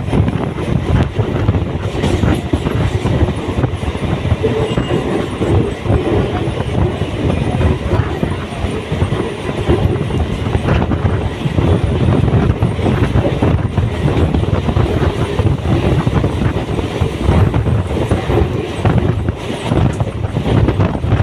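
A train running on the rails, a steady loud rumble with the wheels clattering over rail joints.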